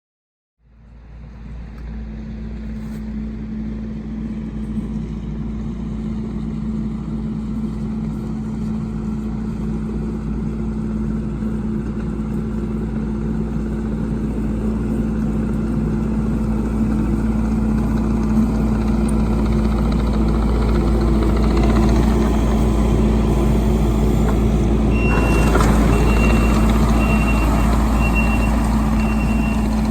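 Heavy work vehicle's engine running steadily, slowly growing louder. About 25 seconds in, its reversing alarm starts beeping a little over once a second as it backs up.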